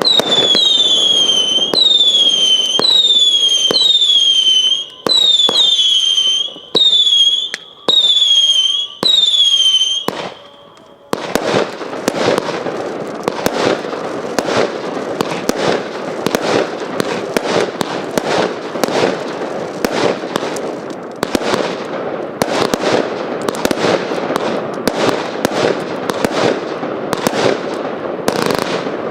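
Hallmark Fireworks 'Squid Game' firework going off. It starts with a string of about ten whistling shots, each a falling whistle about a second long, with bangs between them. After about eleven seconds it switches to a loud, dense crackle of many rapid cracks and pops that lasts to the end.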